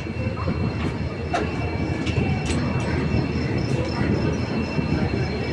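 Express passenger train rolling slowly into a station, heard from an open coach door: a steady rumble of wheels on the track with a few sharp irregular clicks and a thin, steady high squeal.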